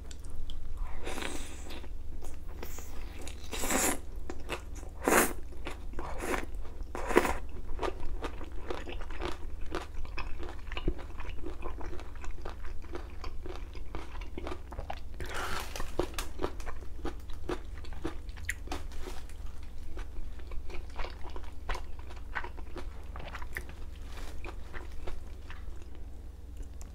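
Close-miked eating of spicy bone-in chicken feet with bean sprouts: wet chewing and a steady run of crunches and bites, the loudest crunches in the first several seconds and again about halfway through.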